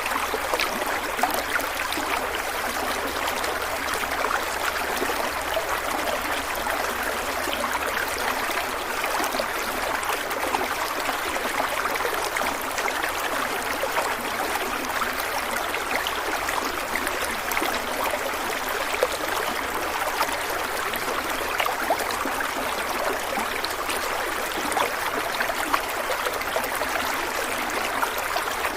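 A stream of water flowing and splashing over stones, a steady babble with many small splashes.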